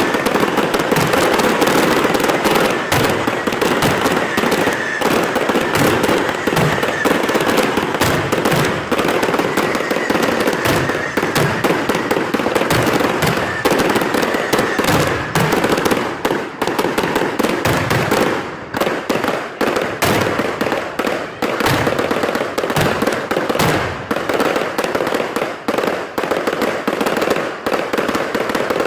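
Fireworks going off in a dense, continuous barrage of rapid bangs and crackles. The barrage thins into more separate bangs after about the halfway point.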